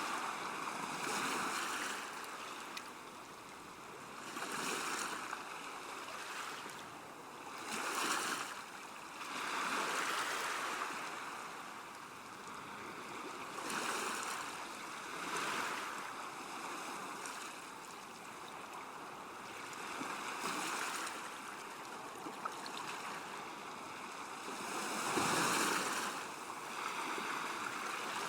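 Water lapping and washing against a river bank, a steady rushing that swells and eases every couple of seconds.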